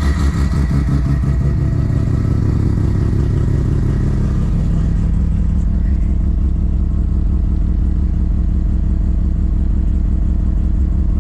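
Semi-peripheral-ported, big-turbo Mazda FD RX-7 two-rotor rotary engine running, its speed easing down over the first four seconds or so and then settling into a steady idle.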